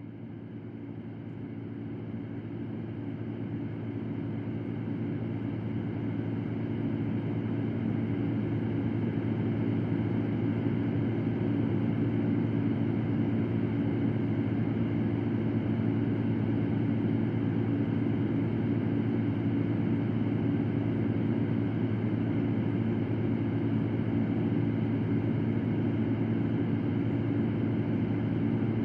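Electric fan running: a steady whir with a low hum, fading in over the first several seconds and then holding steady.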